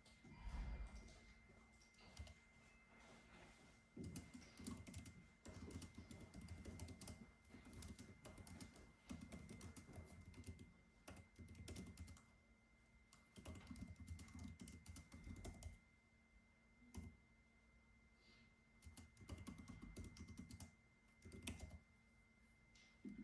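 Typing on a computer keyboard, quiet, in runs of rapid keystrokes a second or three long with short pauses between them. A faint steady high-pitched tone lies underneath.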